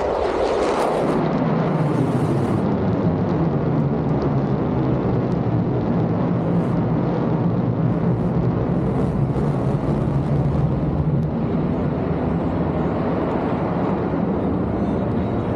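Fighter jet engine running loud and steady, with a sweep that drops in pitch in the first second or so.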